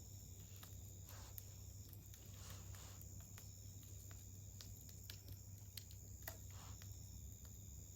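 Wood campfire crackling faintly: scattered sharp snaps and pops, with a few brief soft hisses.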